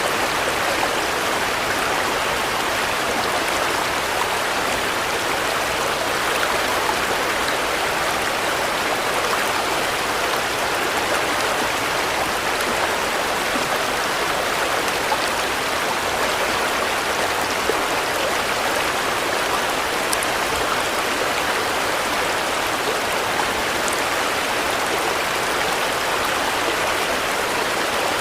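Steady rain, an even hiss of falling drops that does not rise or fall.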